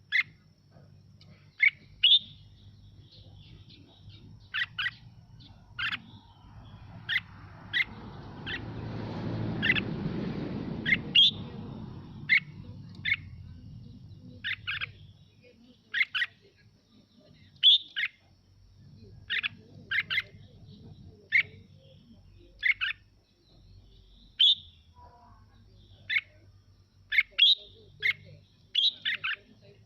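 Red-whiskered bulbul singing short, bright phrases, one about every second. A low rushing noise swells and fades about a third of the way in.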